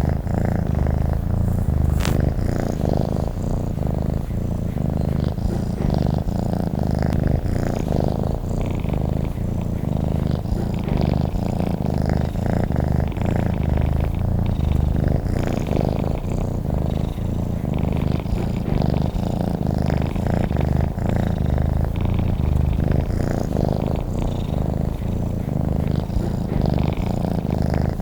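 Domestic cat purring, a steady low pulsing rumble that runs on without a break, with a faint click about two seconds in.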